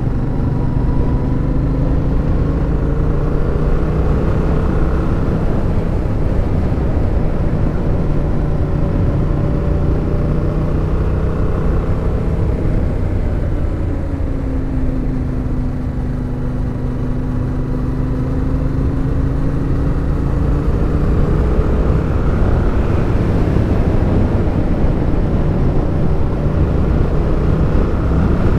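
Suzuki motorcycle engine running under way on a climbing road, its pitch easing down about halfway through and rising again near the end, with a steady low rush of wind and road noise underneath.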